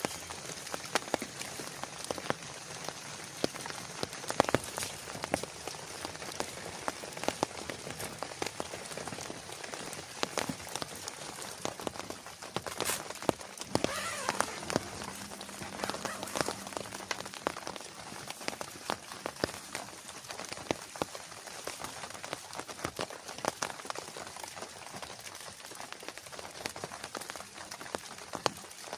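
Steady heavy rain, with many sharp individual drops ticking on a close surface over a constant wash of rainfall.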